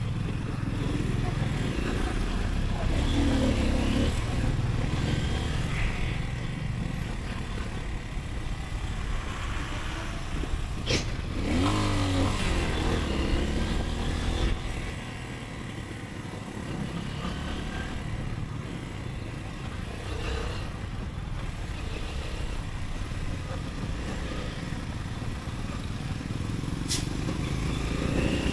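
Motorcycle engine running through city traffic, rising in pitch as it accelerates a few seconds in and again around the middle, then settling lower and quieter. Two short sharp clicks, one about a third of the way in and one near the end.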